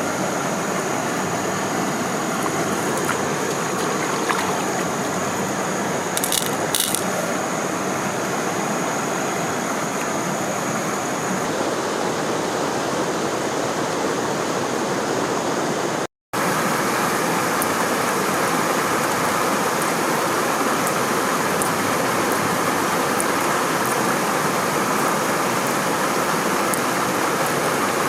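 Steady rush of stream water tumbling below a waterfall. A thin high whine runs alongside it in the first part, and two sharp clicks come a few seconds in. Just past the middle the sound cuts out for a moment and then carries on a little louder.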